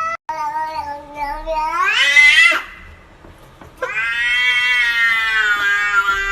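Domestic cat yowling in two long drawn-out calls: the first climbs sharply in pitch at its end, the second is held fairly steady for over three seconds.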